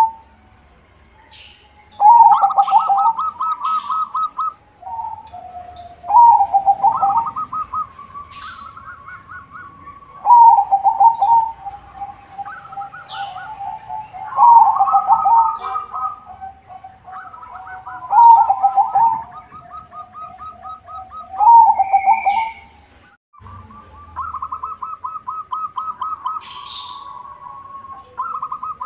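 Zebra dove (perkutut) singing: about seven phrases of fast, stuttering coos, each opening loud and trailing into a quieter rattling coo, repeating every few seconds. Faint short chirps of small birds sound higher up.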